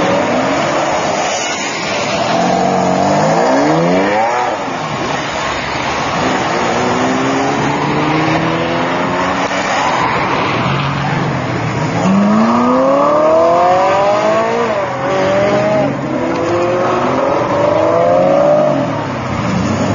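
Supercar engines revving hard and accelerating away one after another, each pitch rising, dropping at a gear change and climbing again; the loudest pulls come about twelve seconds in and near the end. The cars pulling away are a Lamborghini Diablo, a Ferrari 458 Italia and an Aston Martin Vantage.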